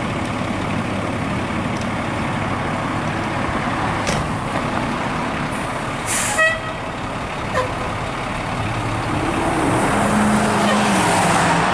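A 2007 Pierce Arrow XT fire engine's diesel engine running, with an air-brake hiss about 4 s in and a brief horn blast about 6 s in. Near the end the engine grows louder as the truck pulls away.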